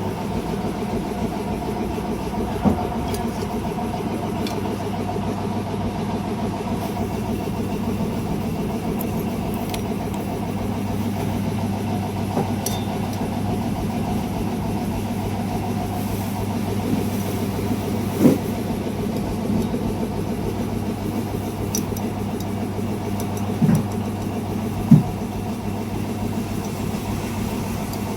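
A steady machine hum, engine- or motor-like, with a few short knocks over it.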